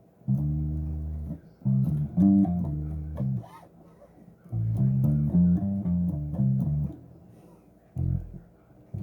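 Solo electric bass guitar played in short phrases of plucked notes, with brief pauses between phrases; a single short note near the end.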